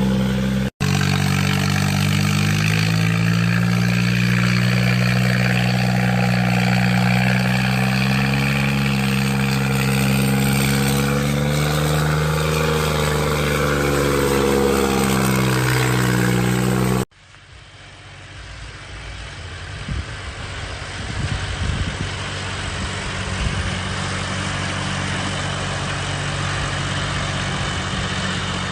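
Tractor diesel engine pulling a fully loaded trolley, running hard at steady high revs, its pitch rising a little and then dropping. About two-thirds of the way through it cuts to a quieter, rougher engine sound that gradually grows louder.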